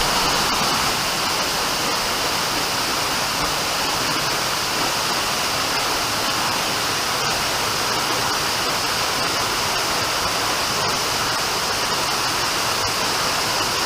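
Steady rush of a waterfall cascading off rocks, several small falls coming together.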